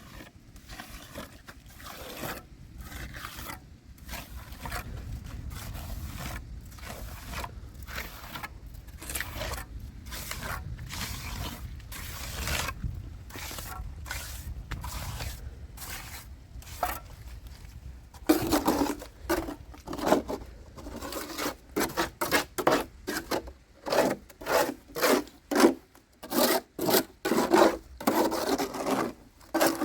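Rhythmic scraping strokes, about two a second, quieter at first and then clearly louder and coarser about two-thirds of the way through.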